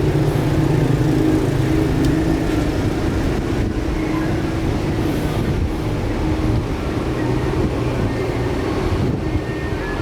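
A steady low mechanical rumble with a faint hum.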